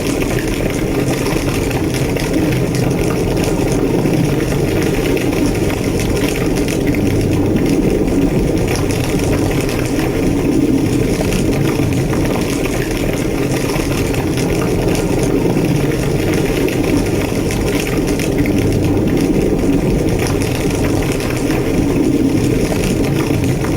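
A large structure fire burning hard, with a steady deep roar and dense, constant crackling.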